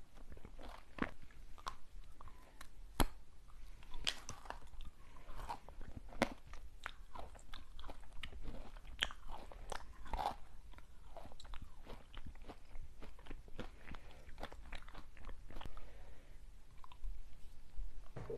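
Close-miked eating of crunchy snacks: a steady run of sharp bites and crunches with chewing in between, irregular and many per second at times.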